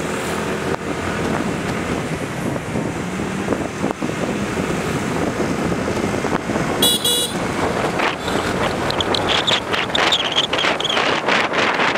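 Busy street traffic passing close by during a ride, a steady rush of engines, tyres and wind. About seven seconds in comes a short, high horn toot, with a few fainter high tones after it.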